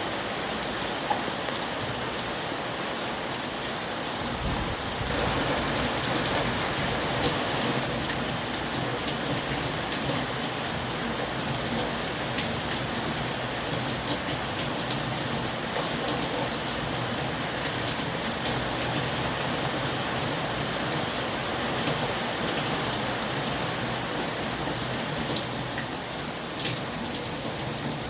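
Heavy rain falling steadily, with a dense hiss and many individual drops ticking on a surface. It grows heavier about five seconds in.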